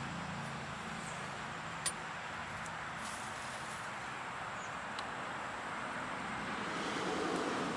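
Steady background hiss with a few light clicks, one sharper click about two seconds in, like small parts being handled.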